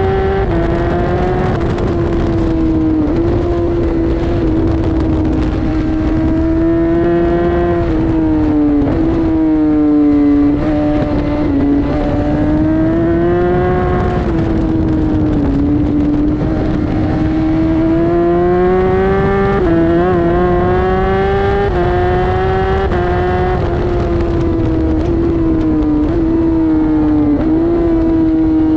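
Inline-four sport motorcycle engine under hard acceleration on a race circuit. Its pitch climbs with revs and drops abruptly at gear changes, then falls and rises again through the corners.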